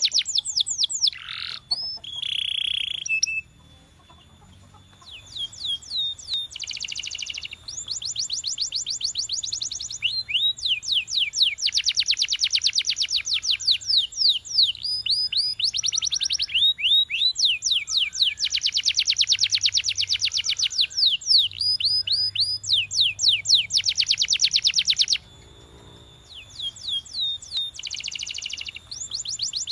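Canary singing: long, fast trills of rapidly repeated high notes in phrases of a few seconds each, broken by short pauses about four seconds in and again near the end.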